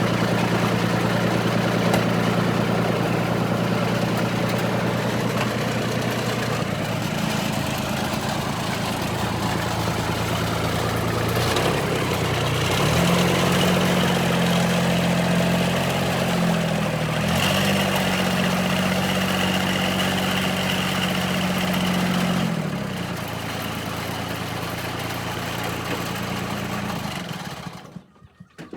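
John Deere 4100 compact tractor's three-cylinder diesel engine running steadily. Its speed steps up a little before halfway, dips briefly, then settles lower about three-quarters of the way through, and the sound cuts off near the end.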